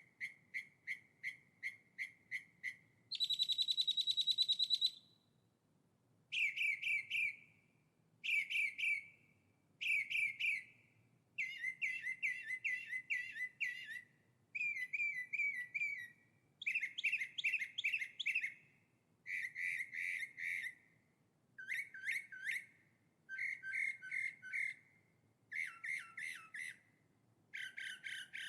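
A songbird singing in phrases of rapid repeated notes, a new phrase every second or two, with a louder, higher-pitched buzzy trill about three seconds in.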